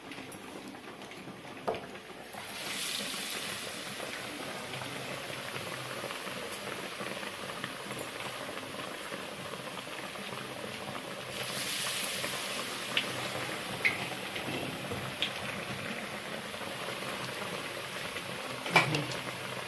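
Battered bread slices deep-frying in hot oil in a kadai: a steady sizzle that starts about three seconds in and swells briefly around the middle. A few light taps sound along the way, the loudest near the end.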